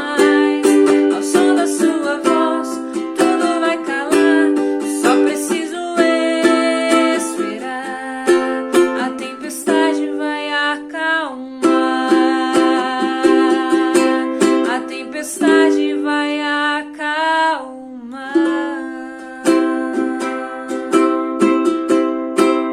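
Music played on a plucked string instrument: a steady stream of picked and strummed chords, with a brief pause in the playing about three quarters of the way through.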